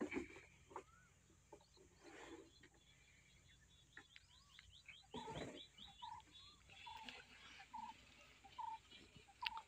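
Quiet outdoor background with birds calling: a short note repeated about every 0.7 s through the second half, and a quick run of high chirps around the middle. A few knocks and bumps stand out, the loudest right at the start.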